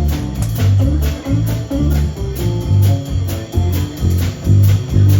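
Live blues band playing an instrumental passage: guitar over a steady, rhythmic bass line.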